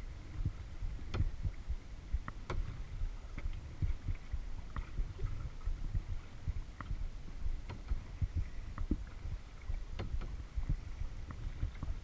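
Lake water lapping and knocking against a kayak's hull, with irregular low thumps and occasional small, sharp drips and splashes.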